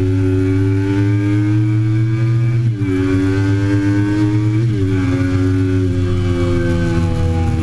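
2008 Triumph Daytona 675's three-cylinder engine accelerating hard, its pitch climbing steadily between two quick upshifts, about three seconds in and again near five seconds.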